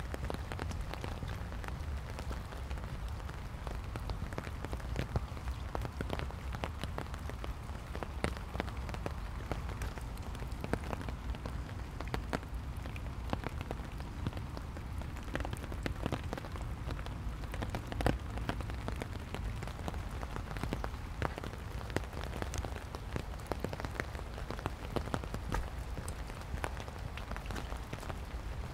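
Steady rain falling on wet pavement and fallen leaves, with many scattered sharp ticks of drops over a low, steady rumble.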